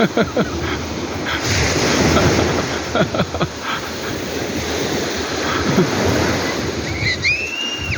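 Sea waves surging and washing among rocks, with gurgling water and wind buffeting the microphone. About seven seconds in, a short high-pitched call rises and holds briefly, then stops.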